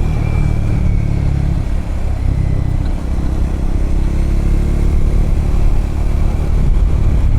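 Triumph Scrambler motorcycle engine running at a steady cruising speed, heard from the rider's seat over road and wind noise.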